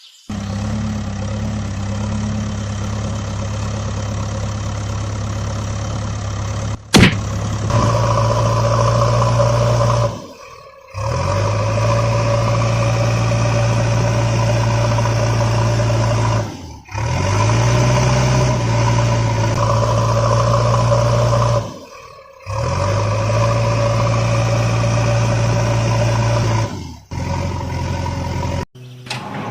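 Vehicle engine running at a steady pitch, in several stretches broken by abrupt short gaps about every five to six seconds, with a sharp click about seven seconds in, after which it runs louder.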